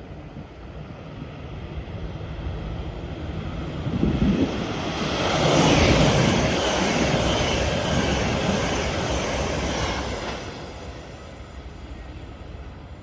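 A train passing by: a broad rush of noise that builds from about two seconds in, is loudest through the middle and dies away near the end.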